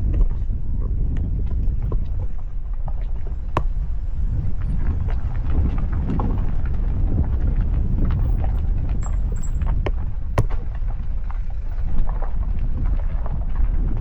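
Vehicle driving with a steady low rumble of engine and road noise, with scattered sharp knocks and rattles, the loudest about three and a half and ten and a half seconds in.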